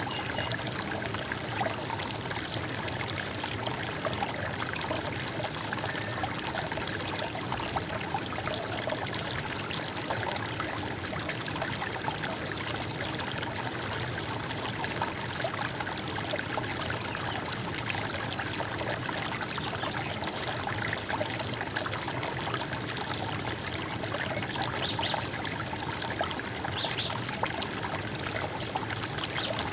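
Running water: a stream flowing and trickling steadily without a break.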